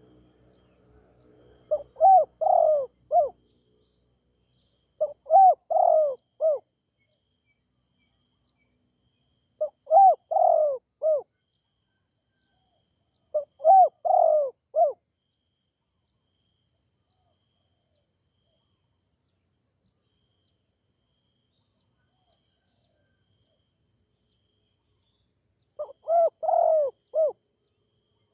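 Spotted dove cooing: five phrases of several quick, low notes each, spaced a few seconds apart, with a long pause before the last one.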